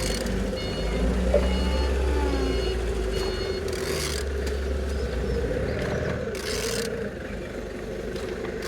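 Volkswagen BXE 1.9 TDI diesel engine running at a steady idle after start-up. Short faint high beeps come through in the first few seconds, and brief hisses come about four and six and a half seconds in.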